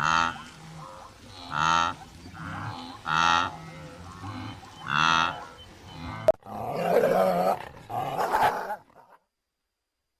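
An animal calling over and over: four loud, pitched calls about a second and a half apart, then a rougher, noisier stretch after a sharp click. The sound cuts off to silence near the end.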